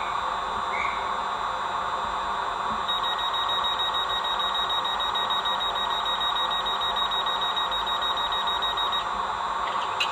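Hornby OO gauge Class 800 model's DCC sound playing through its small onboard speaker: a stationary train's steady hum. From about three seconds in until shortly before the end, a high, rapidly pulsing electronic tone sounds over the hum.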